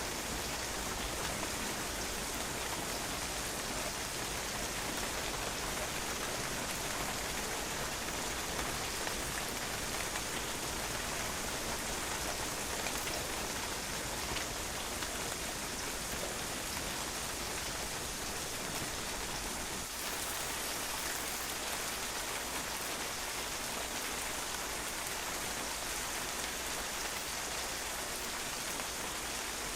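Steady rain falling on a patio, a constant hiss of drops pattering on the hard surface.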